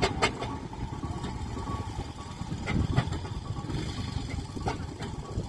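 Steam ploughing engine running, a low rumble with scattered knocks and clanks.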